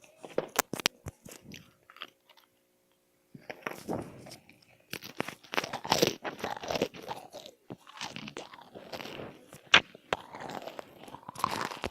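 Close-up crunching and chewing of crisp food: a few sharp clicks in the first two seconds, a brief pause, then steady crunchy bites and chewing.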